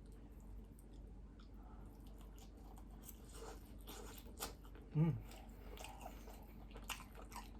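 Close-miked chewing of a large mouthful of fried egg, with wet mouth clicks and smacks starting about two and a half seconds in. A brief hummed voice sound about five seconds in is the loudest moment.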